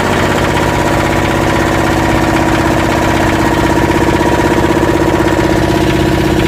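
Yanmar SB12 single-cylinder marine diesel running steadily with an even rhythm after its fuel line repair, as the last air is worked out of the fuel line.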